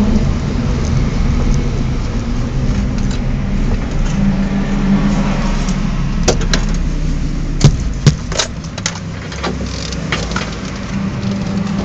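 BMW 318is four-cylinder engine running steadily at low revs, heard from inside the car, with a cluster of sharp clicks and knocks about six to eight seconds in.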